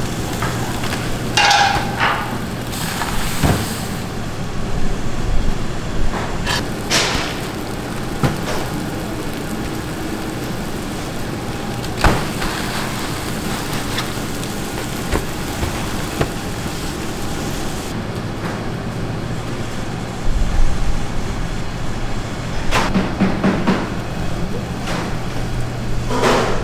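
A steady low machine hum with scattered sharp knocks and clatter, which grow more frequent near the end.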